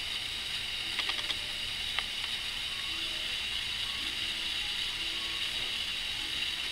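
Steady background hiss with a few light clicks and taps about one and two seconds in.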